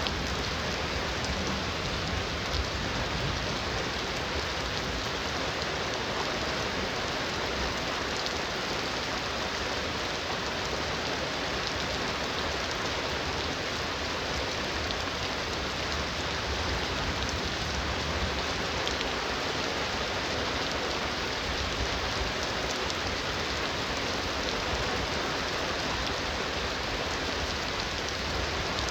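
Heavy rain falling steadily: a dense, even hiss with scattered ticks of drops hitting surfaces.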